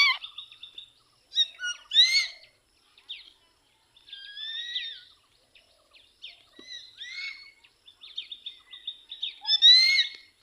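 Pet parrot calling: repeated short, high, arched squawks and chirps in clusters every couple of seconds, loudest right at the start and again near the end.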